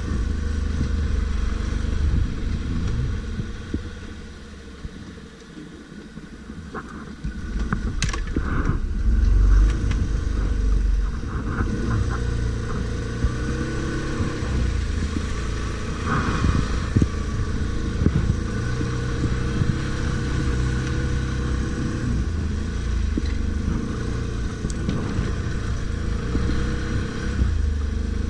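ATV engine running off-road under changing throttle, fading back for a few seconds early on, then revving up loud again and carrying on at a steady drone.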